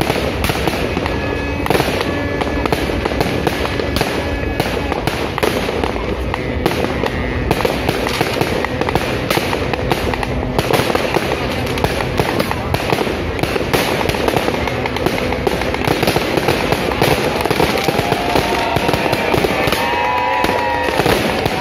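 Many fireworks going off at once: aerial shells and firecrackers bursting in quick succession, making a dense, continuous stream of bangs and crackles with no let-up.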